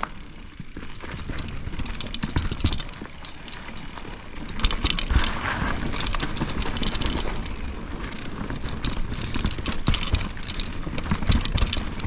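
Enduro mountain bike riding down a wet, rooty trail: tyres hissing and clattering over roots and dirt, with the bike rattling and wind rumbling on the microphone. It gets louder about four and a half seconds in.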